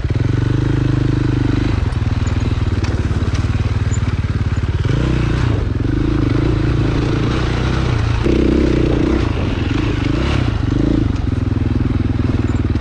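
Dirt bike engine running steadily at low revs, then its pitch rises and falls between about five and eleven seconds in as the throttle is worked while riding.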